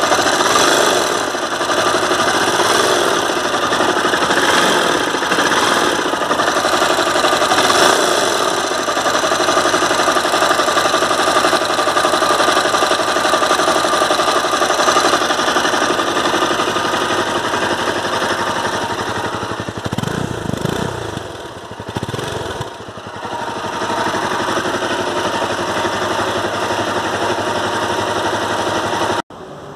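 Honda CBR250R's single-cylinder engine running with an abnormal mechanical noise, which a service centre has blamed on the crankshaft. The sound dips briefly about twenty seconds in and stops abruptly near the end.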